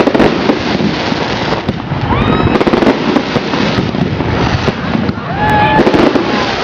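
Fireworks salute in progress: a continuous din of shell bursts and dense crackling, with a few short gliding whistles partway through.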